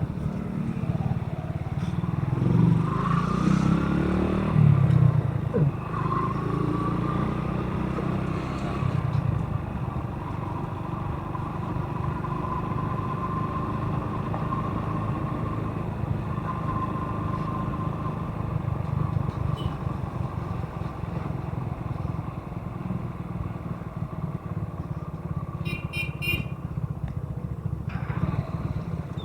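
Motorcycle engine running under way, with a steady low rumble whose pitch rises and falls as it speeds up and slows. A short run of high beeps sounds near the end.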